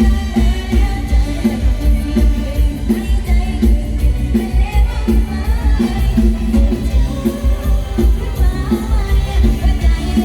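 Live band music with a young woman singing over a strong, steady bass beat.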